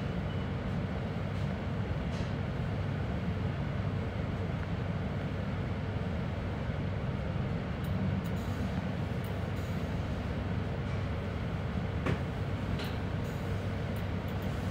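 Inside the passenger car of a regional express train rolling slowly into a station: a steady low rumble and hum, with a few short clicks, the sharpest about twelve seconds in.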